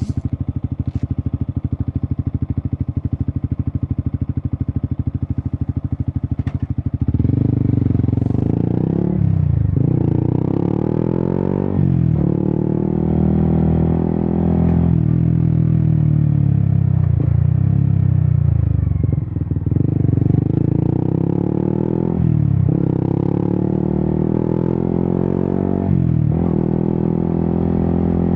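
Yamaha XSR 155's single-cylinder engine through an Akrapovic exhaust, idling with an even, fast pulse. About seven seconds in it pulls away, revving up through the gears, with a short dip in pitch at each upshift.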